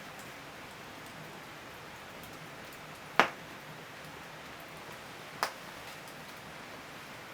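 Firewood burning in a traditional Korean agungi firebox: a steady soft hiss with two sharp cracks of popping wood about two seconds apart, the first one louder.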